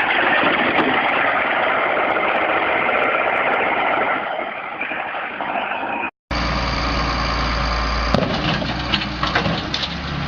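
Heavy construction machinery engines running, in two clips with a sudden cut about six seconds in. The first is a loud, dense engine noise; the second is a steady low engine drone with scattered clicks and knocks.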